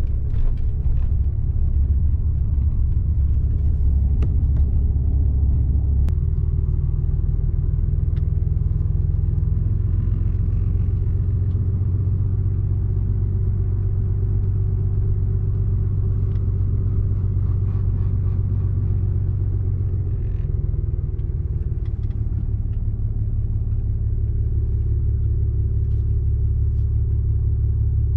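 Car driving along a road, heard from inside the cabin: a steady low engine and road rumble that shifts a few times as the speed changes.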